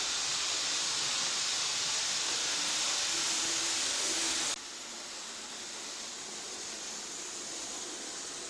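Steady hiss of recording noise, which drops abruptly to a quieter, duller hiss about four and a half seconds in.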